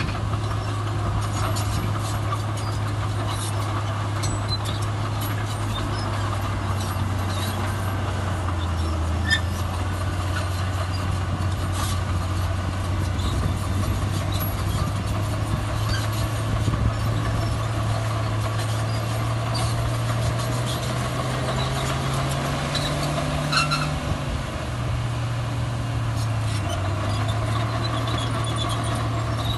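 Heavy diesel earthmoving machinery running steadily. The engine rises in pitch for a few seconds about two-thirds of the way through, as if put under load, then settles back. Scattered clanks and squeaks sound over the engine.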